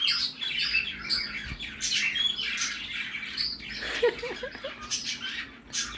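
Cockatiel chattering in a rapid stream of short chirps and squawks, imitating a budgie's warble, with a few lower warbled notes about two thirds of the way through.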